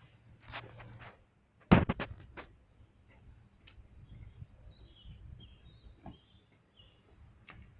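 A quick cluster of sharp knocks about two seconds in, then faint, short bird chirps.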